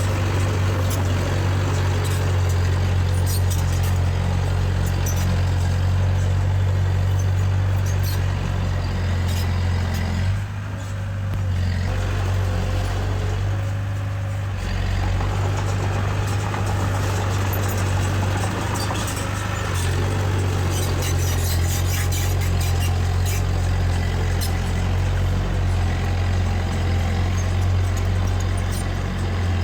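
Diesel engine of heavy earthmoving machinery running steadily, easing off about a third of the way through and picking back up about two-thirds through, with scattered sharp clicks and clanks over it.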